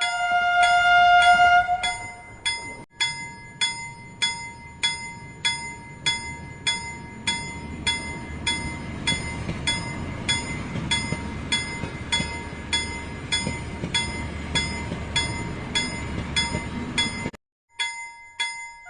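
Toy steam train's electronic sound effects: a steady whistle tone for about the first second and a half, then a bell dinging about twice a second over a low running rumble that swells in the middle.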